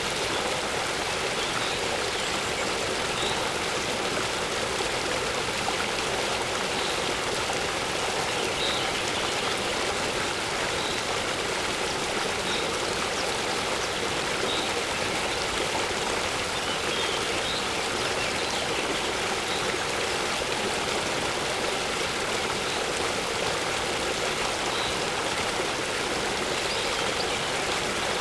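Waterfall water rushing steadily, with faint short bird chirps coming every second or two.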